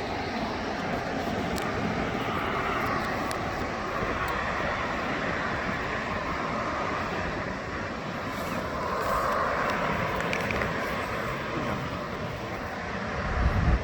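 Jet airliner engine noise, a steady rushing sound that swells twice. A gust of wind buffets the microphone near the end.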